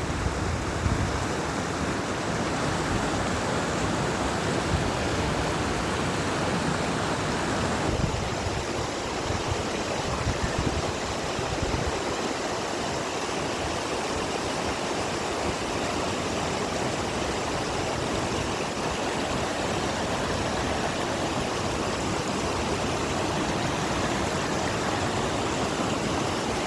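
Mountain waterfall water rushing steadily, with some low wind buffeting on the microphone during the first half.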